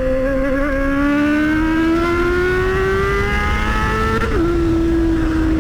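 Motorcycle engine pulling steadily, its pitch rising for about four seconds, then dropping suddenly at an upshift a little over four seconds in and running evenly after it, with wind rumble underneath.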